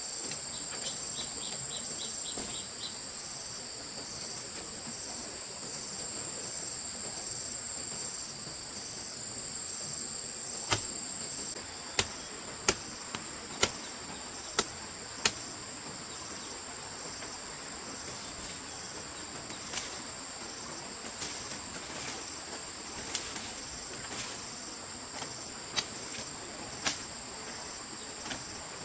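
Crickets chirring steadily in a high, pulsing trill. About a third of the way through comes a run of five or six sharp knocks, roughly one a second, followed by fainter, irregular taps.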